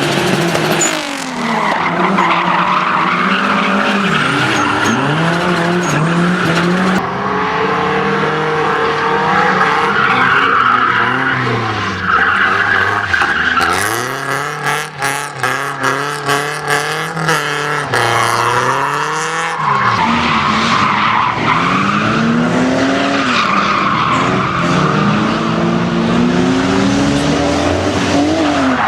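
Car engine driven hard, its revs rising and falling again and again, with tyres skidding and squealing. About halfway through the sound turns choppy for several seconds, pulsing rapidly.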